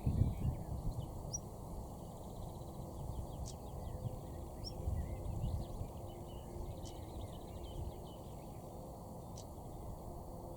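Small birds chirping and twittering faintly, with a few short sharp high notes, over a steady low rumble of background noise. A low bump sounds at the very start.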